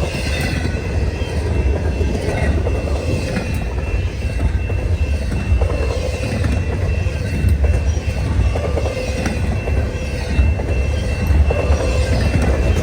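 Freight cars of a long CN freight train passing at speed: a steady heavy rumble of wheels on rail with irregular clicks and a faint, steady high-pitched squeal.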